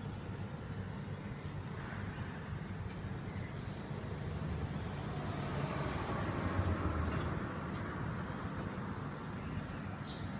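Steady low background rumble, like distant road traffic, swelling a little about two-thirds of the way through, with a faint short bird call over it.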